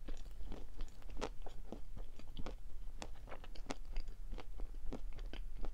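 A person chewing a soft chocolate-coated cream sweet close to the microphone: a steady run of short, irregular clicks and small crunches.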